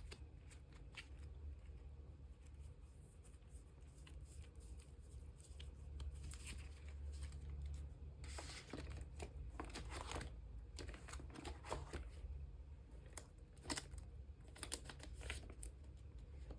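Photocards and plastic sleeves being handled: irregular crinkling and rustling with light clicks, busier from about six seconds in, over a low steady hum.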